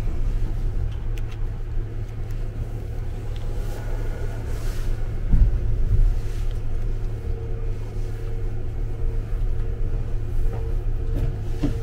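Izukyu Resort 21 electric train running, a steady low rumble heard from inside its observation car. There is a thump about five seconds in, and a faint hum comes and goes in the second half.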